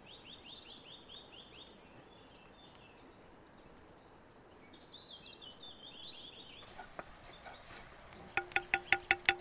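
A bird sings two runs of quick, downward-sliding notes against outdoor background noise. Near the end comes a rapid series of about ten sharp, ringing taps of a utensil on cookware.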